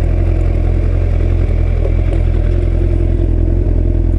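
Motorcycle engine running at a steady, loud pitch while riding, over a heavy low rumble.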